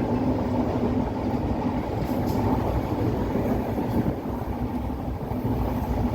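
A moving vehicle running steadily: a continuous rumble with a steady low hum.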